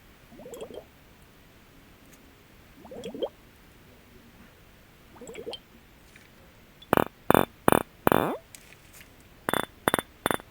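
Glass objects tapped by hand: three soft squeaky rubs in the first half, then about seven quick, sharp taps in two bursts, each ringing briefly with high glassy overtones.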